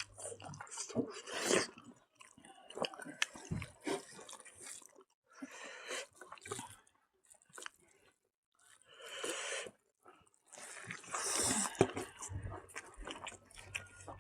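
A person eating close to the microphone: irregular chewing with many short wet clicks, and a few longer noisy stretches.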